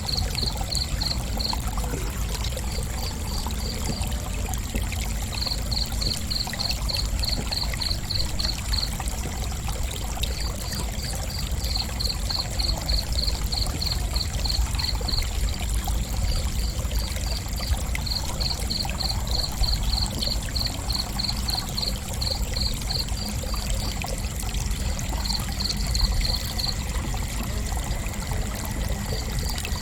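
Crickets chirping in runs of evenly spaced high pulses, about four to five a second, each run lasting a few seconds with short gaps. A steady high continuous trill sounds behind them, over a low rumbling noise.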